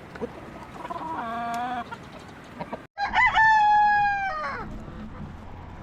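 Rooster crowing: a shorter, fainter call about a second in, then, after a brief dropout, a loud, long crow that falls in pitch as it ends.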